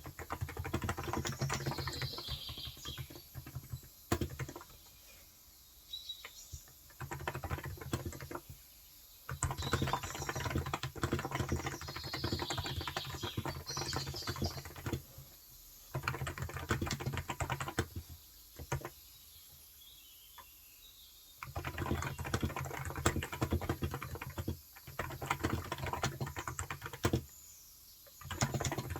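Typing on a Cox Endeavour electrostatic capacitive (35 g) tenkeyless keyboard: runs of rapid keystrokes broken by several short pauses. Birds chirp faintly in the background now and then.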